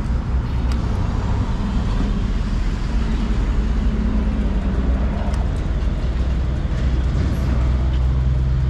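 Harley-Davidson Forty-Eight Sportster 1200's air-cooled V-twin engine running steadily while riding, with road and wind noise.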